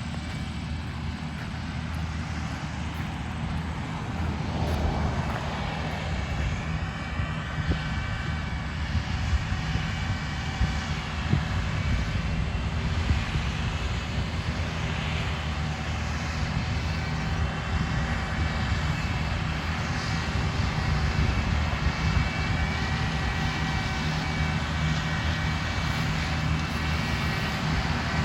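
Beet harvesting machinery running steadily: a deep engine drone with a high, slowly wavering whine above it.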